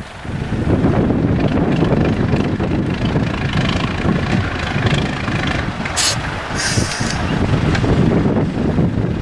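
Diesel engine of an IFA W50 4x4 truck running hard on an off-road trial course, with wind noise on the microphone. Two short hisses come about six seconds in.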